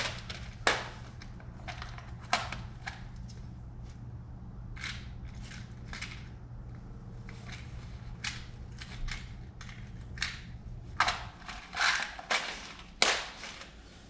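Hands working inside an HVAC air handler's control panel: scattered clicks, rattles and rustles of parts and wiring, with the loudest clicks near the end, over a steady low hum that stops about 11 seconds in.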